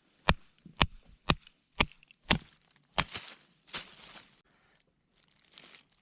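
Batoning firewood: a wooden baton striking the spine of a fixed-blade knife driven into a log, about six sharp knocks two a second, followed by a second or so of ragged cracking as the wood splits.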